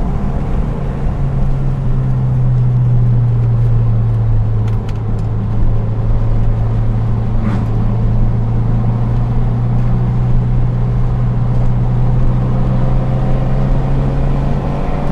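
Second-generation Mitsubishi Eclipse engine pulling at steady, fairly high revs, with tyre and road noise underneath. The engine note holds almost level, dipping briefly about five seconds in.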